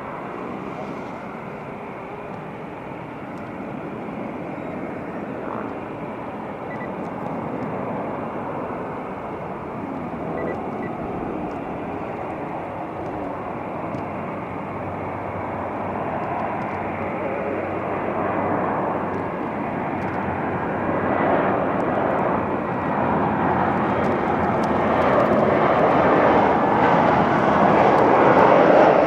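Airbus A320 jet airliner on final approach, its engine noise growing steadily louder as it comes closer.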